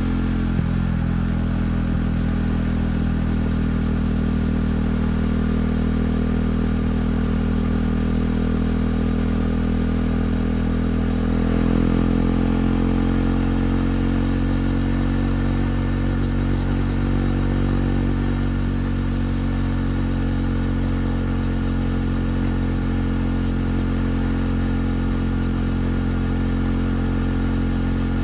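Single-cylinder engine of a KTM 390 Duke with an Akrapovic exhaust, running at a fairly steady speed. Its pitch rises and shifts briefly about twelve seconds in, then holds steady again.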